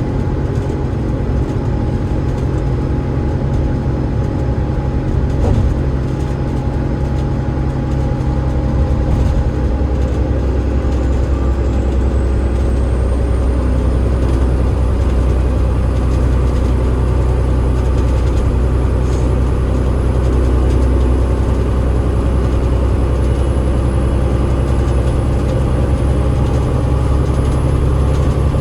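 Cummins ISL8.9 diesel engine and ZF EcoLife automatic gearbox of a double-decker bus running under way, a steady low drone. A thin high whine rises about a third of the way in, holds, and falls away at the very end.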